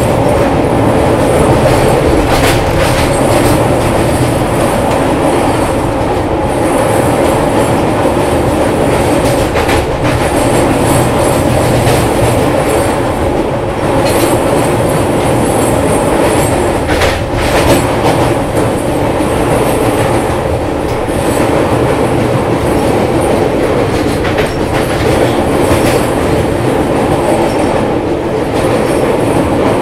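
Indian Railways express passenger train running along the track: a steady, loud rumble and rattle of the coach and wheels, with a sharp click from the rails now and then.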